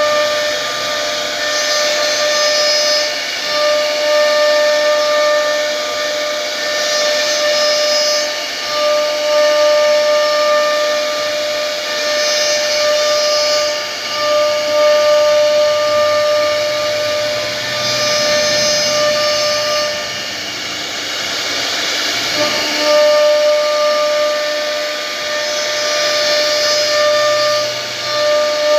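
A steady high-pitched machine whine that cuts out briefly now and then, with a short hissing burst every few seconds.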